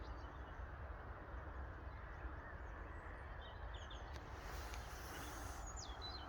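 Quiet open-air ambience: a steady low rumble and hiss, with a few faint short bird calls about three seconds in and again near the end.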